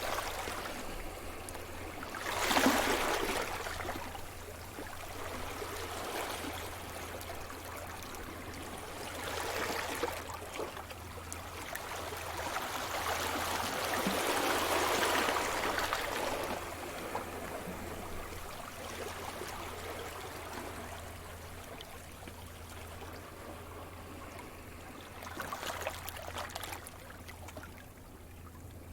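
Sea surf: waves breaking and washing onto the shore in slow surges, the loudest about two and a half seconds in and others near ten, fifteen and twenty-six seconds, with a steady hiss of water between them.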